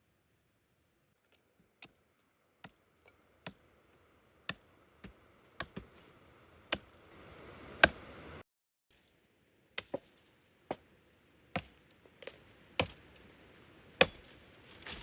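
Wood being chopped: a series of sharp, irregular strikes, roughly one a second, growing louder toward the end.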